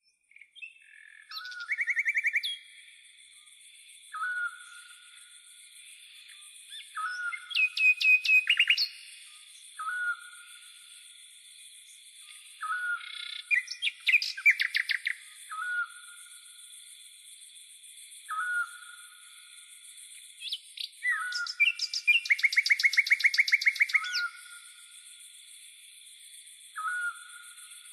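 Birdsong: a short call repeated every two to three seconds, broken by several bursts of rapid trills, the longest near the end, over a steady high hiss.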